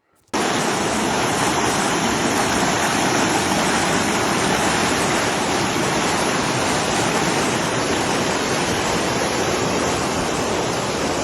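Loud, steady rush of fast-flowing mountain water, cutting in suddenly just after the start and holding an even level throughout.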